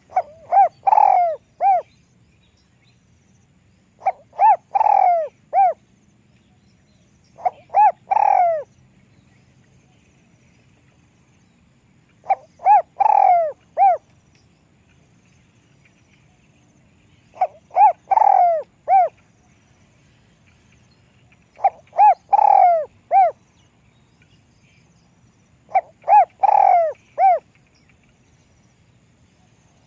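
A spotted dove cooing, with a small, fairly high voice. It repeats its multi-note coo phrase seven times, about every four to five seconds. Each phrase is a few quick coos running into a longer one, then a short final note.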